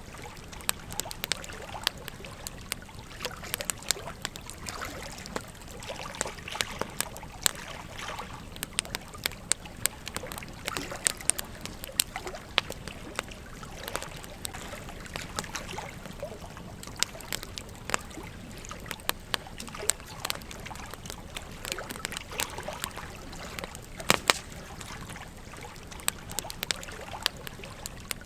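Campfire crackling with frequent irregular sharp pops, over the steady flow of a gentle stream.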